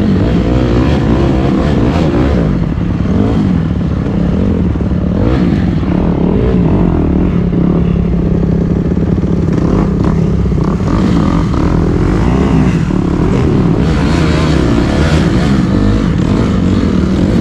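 Dirt bike engine running while being ridden, its pitch rising and falling as the throttle is worked.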